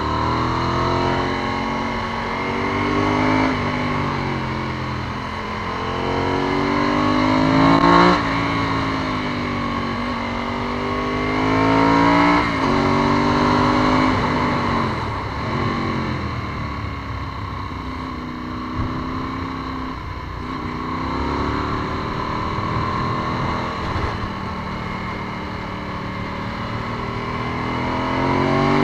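Ducati 748's 90-degree V-twin engine heard onboard while riding, its pitch climbing under acceleration and dropping back again and again, over a steady rush of wind noise.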